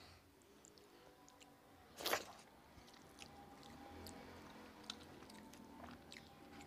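A person chewing mouthfuls of rice and fish eaten by hand, with small wet mouth clicks throughout and one short, louder smack about two seconds in.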